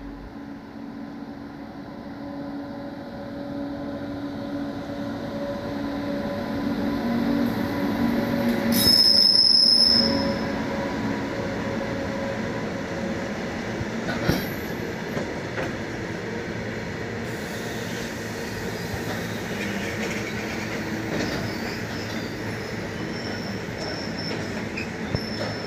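Indian Railways freight train running past, a steady rumble and rattle of wagons on the rails that builds over the first several seconds. About nine seconds in there is a louder stretch with a brief high-pitched wheel squeal, and a single sharp clack a few seconds later.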